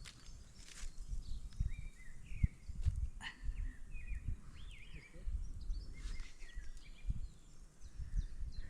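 Wind buffeting the microphone in gusts with a low rumble, while small birds give short chirping calls several times.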